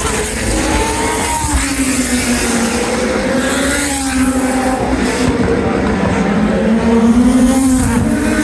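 1980s Formula One car engines running at racing speed, their pitch rising and falling repeatedly as the cars accelerate and slow.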